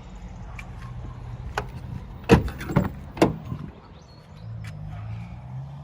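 Doors of a 1992 Toyota Hilux Surf being handled, heard as three sharp knocks and latch clicks close together, about two to three seconds in, the first the loudest.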